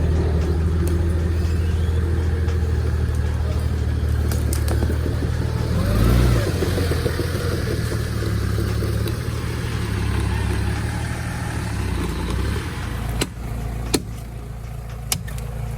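Off-road vehicle's engine running steadily under load, revving up briefly about six seconds in. Near the end it drops back, and a few sharp knocks sound.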